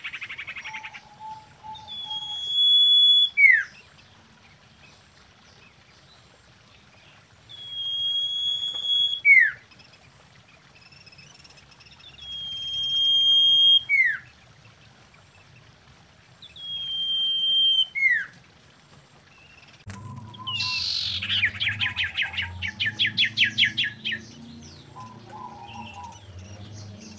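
Common iora calling: four long, level whistles, each ending in a quick downward slur, repeated every four to five seconds. About 20 s in comes a fast chattering trill over a low background hum.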